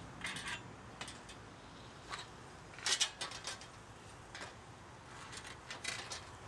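Hand tools clicking and clinking against metal bicycle parts as the frame is taken apart: irregular sharp metallic clicks, with a quick cluster about three seconds in and another near the end.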